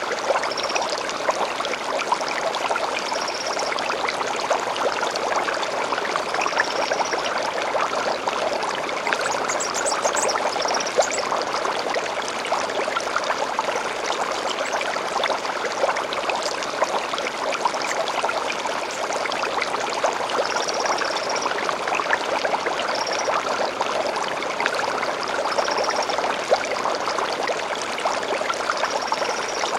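A small stream babbling and trickling steadily, with short high bird calls repeating every few seconds and a brief burst of quick twittering about ten seconds in.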